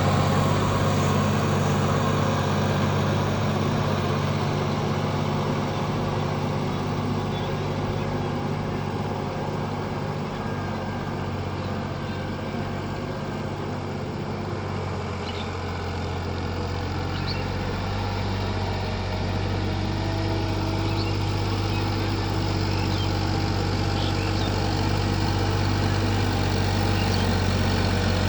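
Sonalika tractor's diesel engine running steadily, its note shifting about halfway through.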